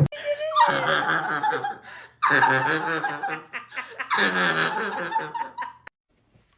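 A person laughing hard in three long bouts, cutting off suddenly near the end.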